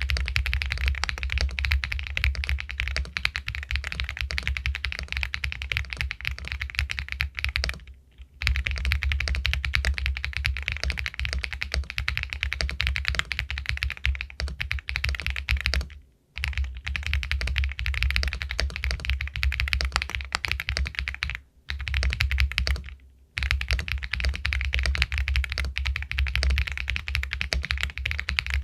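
Fast, continuous typing on an Epomaker Galaxy 80 Pro aluminium mechanical keyboard with White Jade linear switches, the keystrokes running together, with brief pauses about 8, 16, 21 and 23 seconds in.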